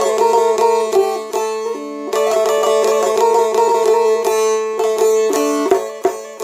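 Instrumental song intro: a plucked string instrument plays a quick, ornamented melody over a steady held drone note.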